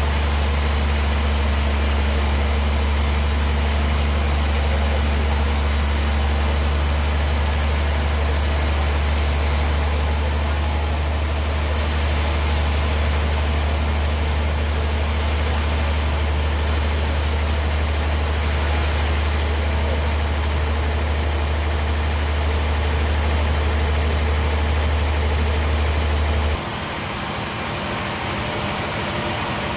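Bandsaw sawmill running, a steady deep hum under a continuous hiss of machine noise. Near the end the deep hum cuts off suddenly and the noise continues a little quieter.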